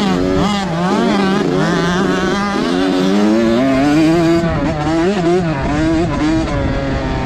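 Several motocross dirt bikes riding around the track, their engines revving up and down as they throttle on and off, with one engine climbing steadily in pitch partway through.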